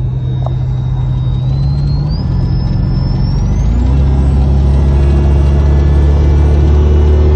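1996 Chevrolet Caprice's V8 heard from inside the cabin, pulling under acceleration and growing louder, its note shifting twice. A thin high whine climbs in pitch twice along with it, then holds.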